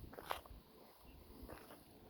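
Quiet footsteps: a few short scuffing steps, one near the start and two about a second and a half in.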